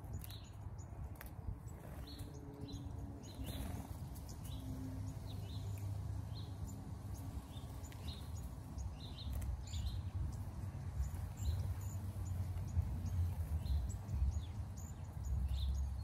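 A flock of small birds calling as they feed in a berry-laden shrub: many short, very high, thin notes, thickening from about five seconds in, mixed with some lower chirps. A low steady rumble runs underneath.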